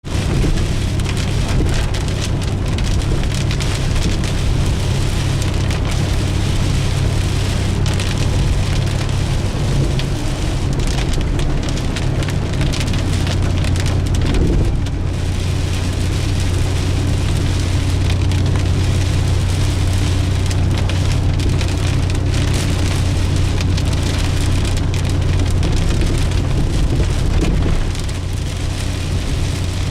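Heavy hurricane rain pouring down in a steady, loud hiss, with a steady low hum underneath.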